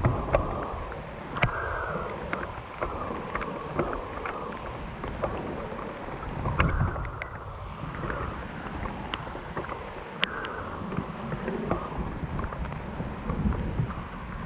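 Steady tropical rain in the jungle, with scattered sharp taps and knocks close to the microphone.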